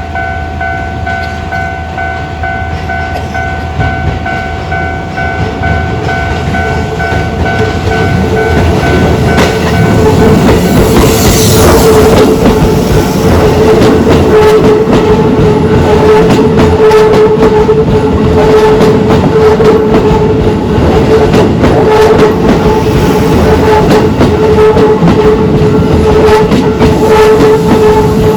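Railway level-crossing alarm sounding its standard low tone continuously while an electric commuter train passes over the crossing. The train grows louder about ten seconds in, its wheels clacking over the rail joints.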